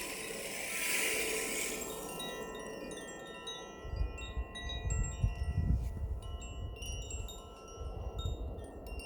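Wind chimes ringing, many overlapping metal tones that hang on and die away slowly. A high hiss fades out in the first two seconds, and an uneven low rumble runs underneath from about four seconds in.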